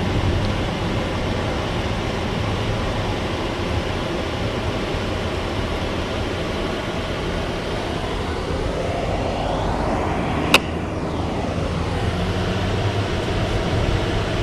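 Steady road and engine noise of a moving car, heard from inside the cabin. About ten seconds in, another vehicle passes, its sound swelling and fading, and a single sharp click is heard.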